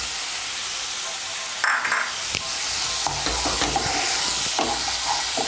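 Onion and spice masala with freshly added tomato slices sizzling in hot oil in a nonstick kadai, while a plastic spatula stirs and scrapes it around the pan. The stirring strokes come more often from about three seconds in.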